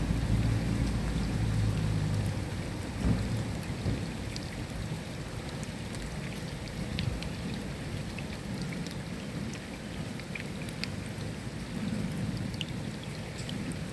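Steady rain, an even hiss with scattered sharp ticks of individual drops. A low rumble of thunder dies away about three seconds in.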